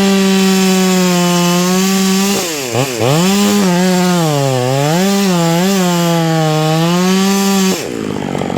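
Two-stroke chainsaw at full throttle cutting through oak, its pitch dipping as the chain bogs down in the wood, once sharply about two and a half seconds in and again in the middle. The throttle is let off near the end.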